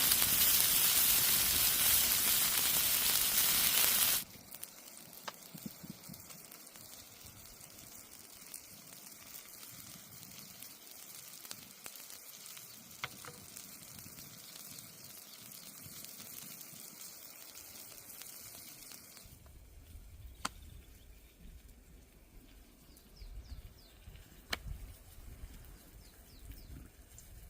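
Food frying in hot oil over a campfire: a loud, steady sizzle that cuts off suddenly about four seconds in, followed by a quiet stretch with a few faint scattered clicks.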